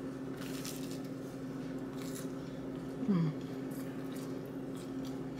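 Biting into and chewing a toasted chicken-and-cheese panini, with a few faint crunches, over a steady low hum.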